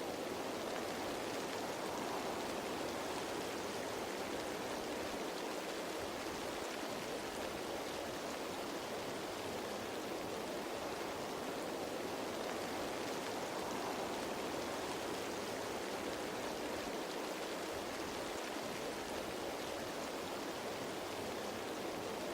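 Steady rain falling on leaves, a constant, even patter without breaks.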